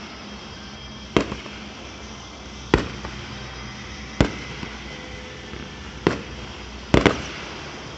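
Fireworks display: aerial shells bursting one after another, five sharp booms roughly a second and a half apart, the last a quick double, some followed by a smaller pop.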